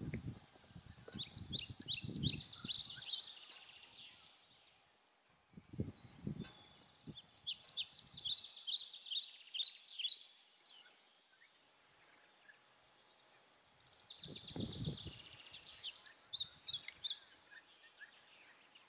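Wild birds calling: three bouts of rapid, high chirping notes, each lasting two to three seconds, near the start, in the middle and near the end. A few short, low muffled rumbles on the microphone come in between.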